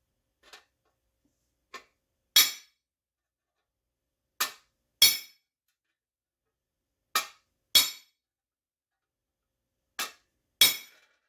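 Hammer striking sheet metal: two faint taps, then seven sharp, ringing metallic blows, mostly in pairs a couple of seconds apart.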